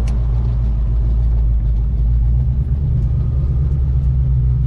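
Ford Ranchero's carbureted V8 running steadily at low revs, a deep even rumble with no revving.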